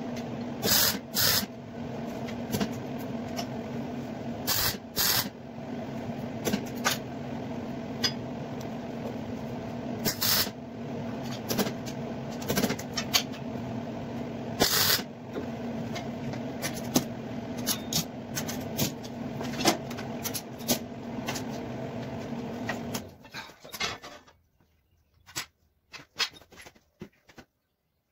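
A steady machine hum with sharp knocks and clicks of metalwork, such as clamps and steel parts being handled. The hum cuts off suddenly about 23 seconds in, leaving only scattered clicks.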